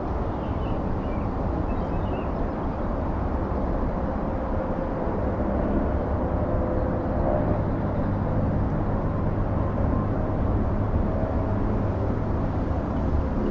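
A steady low outdoor rumble with a faint hum in it, as from distant traffic or wind on the microphone, with a few faint high chirps near the start and the end.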